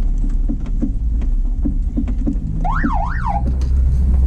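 A car rolling slowly on a dirt road, heard from inside the cabin: a steady low engine and road rumble with frequent small crackles from the tyres. About three seconds in comes a brief high sound that glides up and down twice in quick succession, like a whistle.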